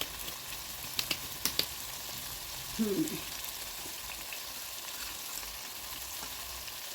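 Liver and tomatoes frying in a pan with a steady sizzle. A few sharp clicks about a second in, and a brief vocal sound near the middle.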